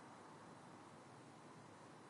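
Faint, steady city-night ambience: an even noise haze with no distinct events.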